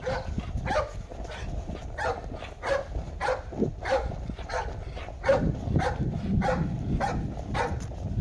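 Dog barking over and over, about two barks a second, over a steady low rumble.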